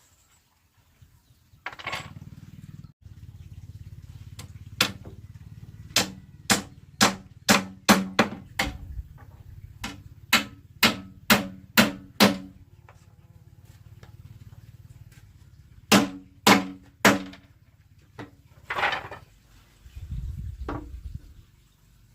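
Sharp blows striking wood, as in woodworking. A run of about a dozen strikes at roughly two a second comes first, then three more a few seconds later, over a steady low hum.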